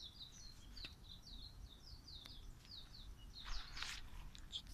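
A small bird calling a rapid series of short, high, downslurred chirps, about four a second, that fades out about three seconds in. Near the end there is a brief rustle.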